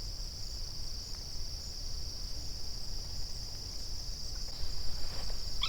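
Crickets singing in a steady, unbroken chorus, heard as a constant high-pitched buzz, over a low rumble.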